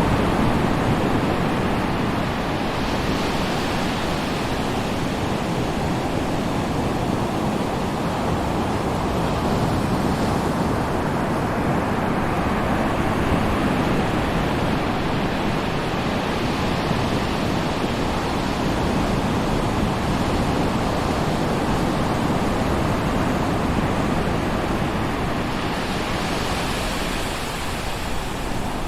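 Ocean surf: waves breaking on a beach in a continuous wash, with slow swells of hiss as individual waves break a few times.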